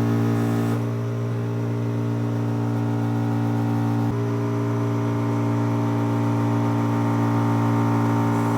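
Steady machine hum, unchanging in pitch, with a faint click about four seconds in.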